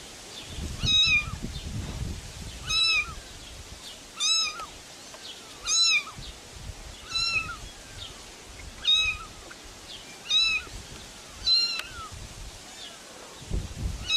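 A cat meowing over and over: about eight short, high-pitched meows, roughly one every one and a half seconds.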